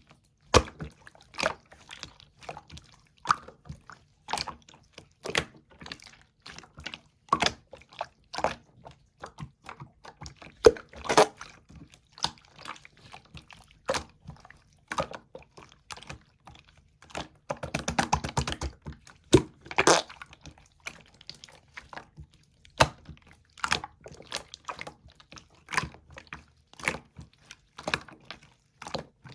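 Yellow slime being squished and poked by hand, making irregular wet clicks and pops a few times a second, with a dense run of quick crackling pops about eighteen seconds in.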